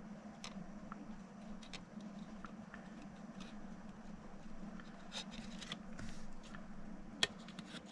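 Light, scattered clicks and taps of small plastic model-locomotive parts and hand tools being handled at a workbench, with one sharper click about seven seconds in, over a steady low hum.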